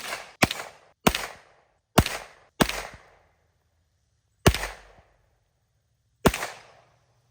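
Gunfire: about seven single shots fired at an uneven pace, each with a short echoing tail. The gaps shorten to about half a second in places and stretch to nearly two seconds near the end.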